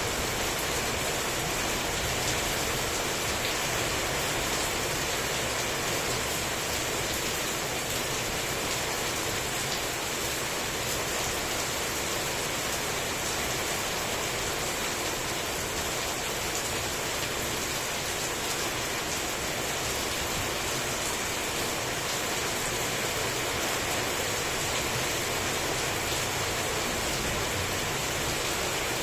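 Heavy rain falling steadily, a dense even hiss with no thunder or other sudden sounds.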